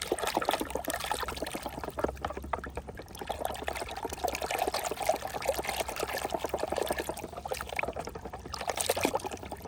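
Water pouring and trickling over a plastic toy as it is washed, a continuous stream of small splashes and drips.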